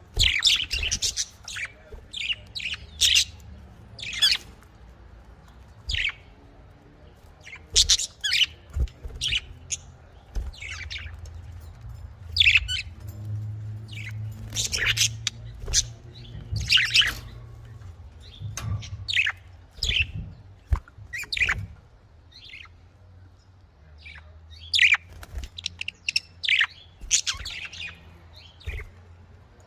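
Budgerigars chirping and chattering in a quick, irregular run of short high-pitched calls.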